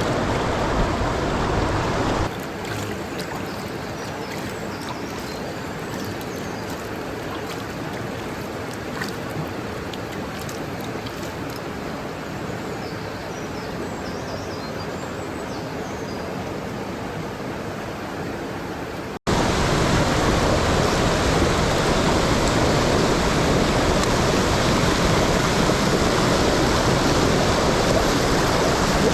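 Rushing mountain stream, a steady hiss of running water. It drops in level about two seconds in and comes back louder at a sudden cut near the end.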